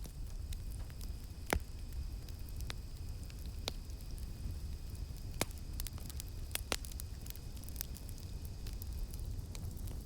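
Campfire crackling, with about half a dozen sharp wood pops over a low steady rumble of the flames. A faint steady high insect drone runs underneath and fades out near the end.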